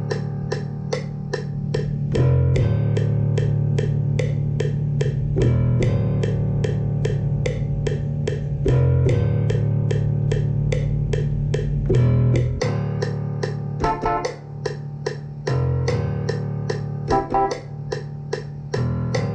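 Electronic beat programmed in MIDI in FL Studio: steady hi-hat-like ticks about three a second over a sustained bass line that changes note every three seconds or so. Higher melody notes join in about two-thirds of the way through.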